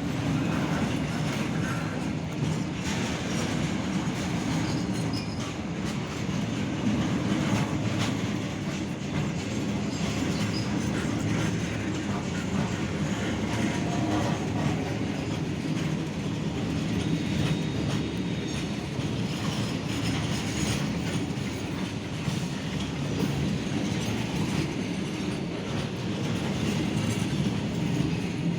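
Train running on the rails: a steady rumble of wheels on track with a clatter of clicks over the rail joints.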